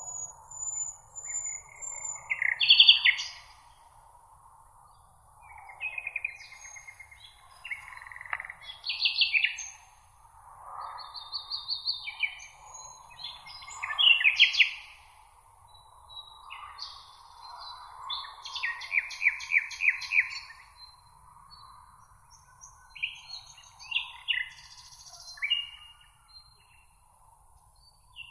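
Several songbirds singing, short phrases and chirps coming every second or two, one a quick trill of repeated notes, over a steady high hiss.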